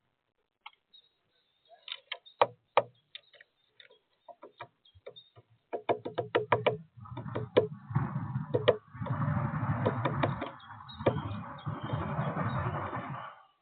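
Woodpecker pecking at sunflower seeds on a bird feeder. Sharp, separate taps come first, and from about halfway they quicken into a fast, continuous hammering.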